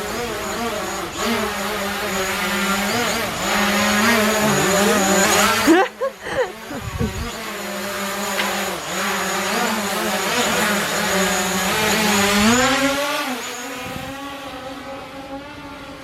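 Car engine running, its pitch wavering up and down. It breaks off briefly about six seconds in, then revs up about twelve seconds in and fades toward the end.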